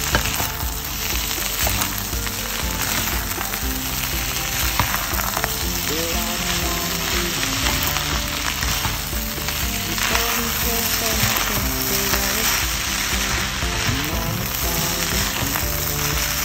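Fried rice with egg, peas, carrots and corn sizzling in a hot pan as it is stirred and tossed, a steady frying hiss, with background music underneath.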